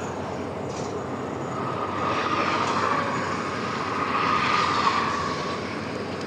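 Excavator's diesel engine and hydraulics working steadily, with a high whine that swells about two seconds in and again a little before the end, then fades.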